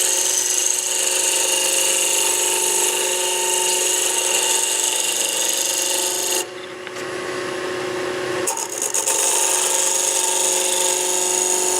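Wood lathe running with a turning chisel cutting into the spinning wooden spindle: a steady hiss of cutting over the lathe's hum. About six and a half seconds in the tool comes off the wood for about two seconds, leaving only the hum, then cuts again.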